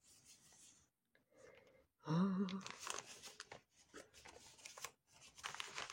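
Crinkling and small clicks of packaging being handled as a diamond painting toolkit is opened. The handling starts after about two seconds of near silence.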